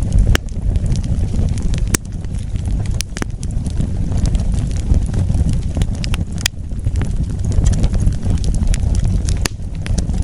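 Wood fire burning with a steady low rumble, broken by sharp crackles and pops at irregular intervals, several of them loud.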